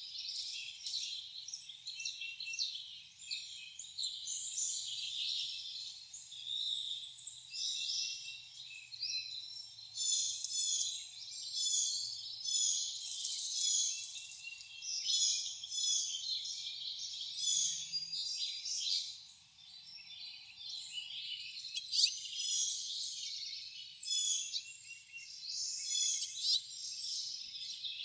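Wild songbirds chirping and singing over one another, many short calls and trills overlapping without a break.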